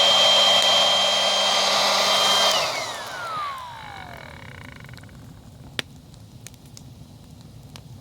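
Electric air pump used as a fire blower, running with a steady whine, then switched off about two and a half seconds in and winding down with a falling pitch. Afterwards the campfire crackles quietly with a few sharp pops.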